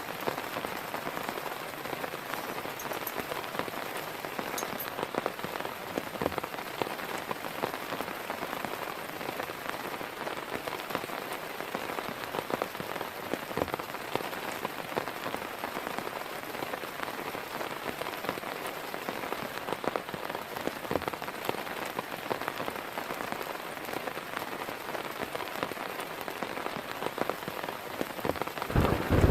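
Heavy rain falling steadily, with scattered louder drops ticking on a surface. A low rumble of thunder begins right at the end.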